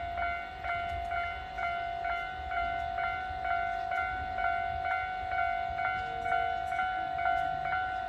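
Railway level-crossing warning bell ringing, one clear pitched tone struck over and over, about twice a second, over a low background rumble.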